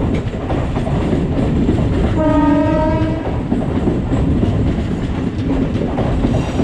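Electric multiple-unit passenger train running past close by, its wheels rumbling on the rails, with one horn blast about a second long some two seconds in.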